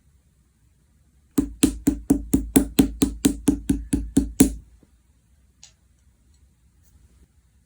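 Chewy red slime being pressed or poked in quick succession, giving about thirteen sharp popping clicks at roughly four a second, then stopping, with one faint click shortly after.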